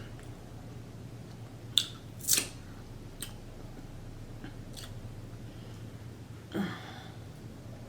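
Close-miked eating of boiled shrimp: biting and chewing, with a few sharp crunchy clicks around two seconds in and a short voiced hum near the end.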